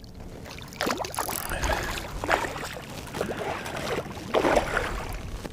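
Irregular water splashes beside a kayak, several bursts over a few seconds, as a large chain pickerel thrashes at the surface while being reeled in.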